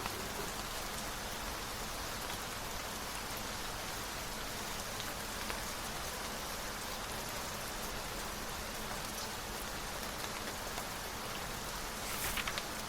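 Steady rain falling, an even hiss of drops. Near the end a brief crisp rustle rises over it, in keeping with a book page being turned.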